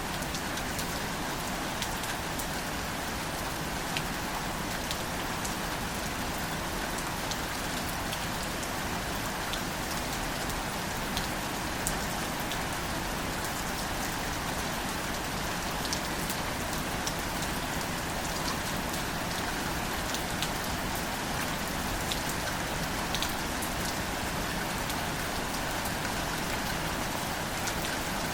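Gentle steady rain falling on plants, a continuous hiss with scattered, distinct drop taps throughout.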